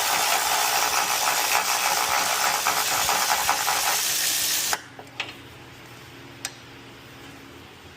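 Air tool, likely a pneumatic ratchet, running with a strong hiss of exhaust air for nearly five seconds as it spins out a freed control-arm bolt, then cutting off abruptly. A few light metallic clicks follow.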